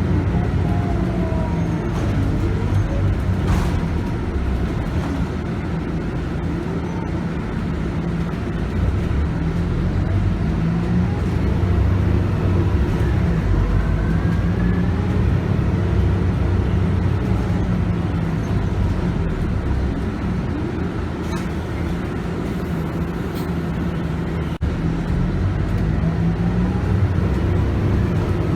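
Scania K280UB bus with a 9.3-litre five-cylinder Scania DC9 diesel engine and a ZF Ecomat six-speed automatic gearbox, running under way. It makes a steady low rumble, and its pitch rises and falls several times.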